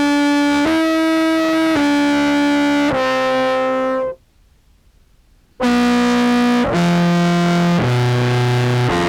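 Contrabass clarinet played through an EHX POG2 octave pedal set two octaves down, into a Behringer Brassmaster fuzz: held, distorted notes, about one a second, in two short phrases. The phrases are split by a pause of about a second and a half near the middle.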